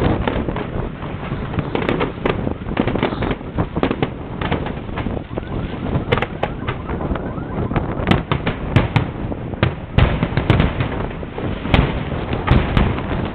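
Fireworks going off: a dense, continuous run of bangs and crackles, with several louder booms in the second half.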